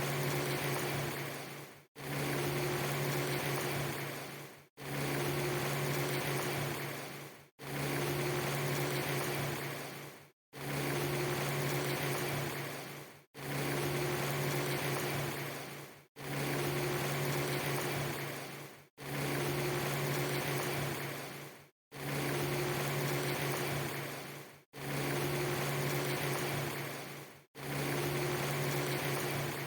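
A rushing noise with a steady low hum, a segment just under three seconds long looped over and over: each repeat fades away and drops to a moment of silence before starting again, about every three seconds.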